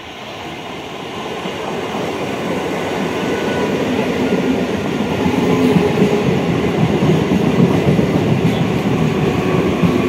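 Electric multiple unit (EMU) suburban local train running past on the track, growing steadily louder as it approaches and passes close by.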